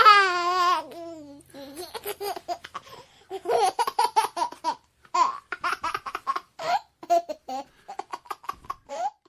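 A person laughing: a long wavering cry at first, then runs of short laughing bursts.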